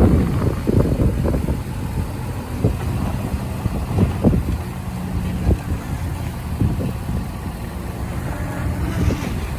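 Heavy diesel engine of a bulldozer running steadily, with scattered clanks and knocks every second or so.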